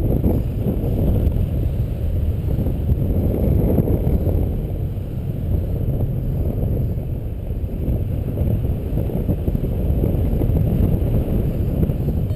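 Strong wind rushing over the microphone during a paraglider flight in gusty air: a steady low rush that swells and eases.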